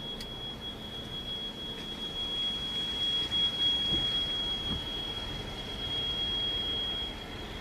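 A steady, high-pitched electronic tone sounding without a break, with a couple of faint low thuds about four seconds in.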